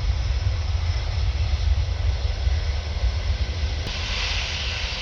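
Jet airliner engines at takeoff thrust: a steady deep rumble, with a brighter hiss coming in about four seconds in.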